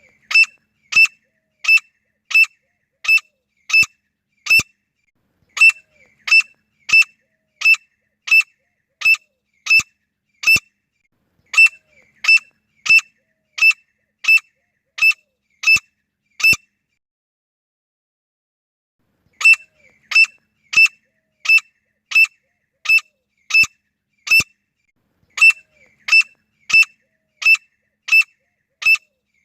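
Female grey francolin calling: a long series of sharp, high, identical notes, about three every two seconds. They come in runs of seven to nine notes with short breaks, and there is one longer pause of about three seconds about two-thirds of the way through.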